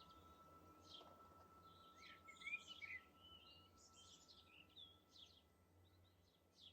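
Faint birdsong: many small birds chirping and twittering in short, quick calls and little pitch glides, busiest in the middle and thinning toward the end, over a faint steady hum.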